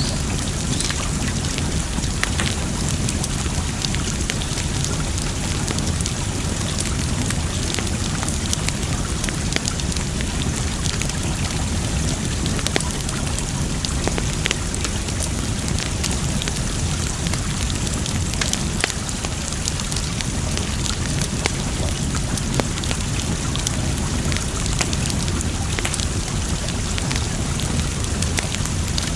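Campfire crackling, with many scattered sharp pops and snaps, over a steady wash of water.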